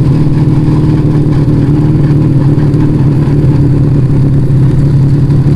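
Yamaha Vega ZR motorcycle engine breathing through an aftermarket Arrow exhaust, running at a steady, even pitch while the bike is ridden along.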